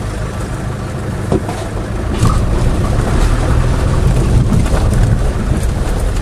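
Land Rover engine running at low speed as the vehicle creeps forward on a rough lane, getting louder about two seconds in as it pulls away.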